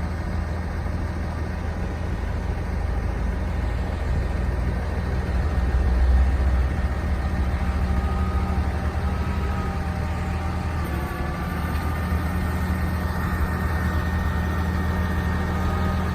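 The 2010 Ram 5500 bucket truck's Cummins diesel engine running at a steady idle while it drives the boom's hydraulics. From about halfway through, a faint wavering whine sits above the engine hum.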